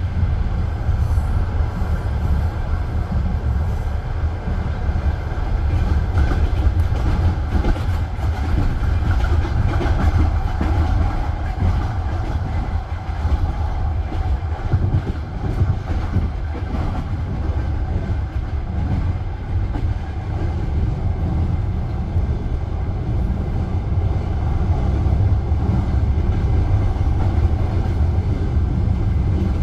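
Passenger train carriage running on rails, heard from inside the carriage: a steady, loud low rumble of wheels on track with clicks from the wheels over the rail joints.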